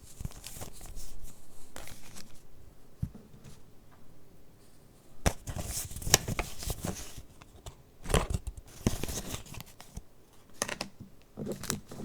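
Paper pages of a handmade junk journal being handled and turned, rustling and crinkling in several separate bursts with sharp clicks, the loudest about halfway through and again a few seconds later.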